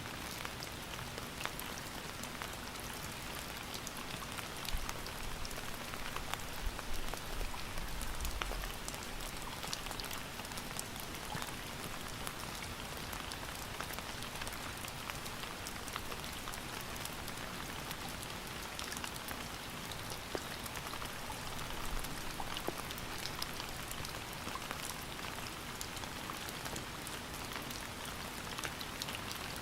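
Steady rain falling, a dense hiss dotted with the ticks of individual drops striking a surface. A brief low rumble comes about seven to nine seconds in.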